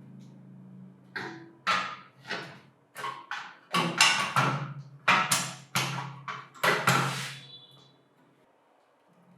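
A hammer tapping repeatedly, about fifteen sharp knocks at two to three a second, while the grinder's electric motor parts are being seated during assembly.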